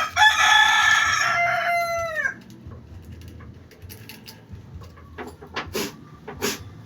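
A rooster crowing once, loud, about two seconds long with a falling tail. Then short scraping strokes, two or three a second: fine sandpaper rubbed on the pressure switch's contact point to clean off corrosion.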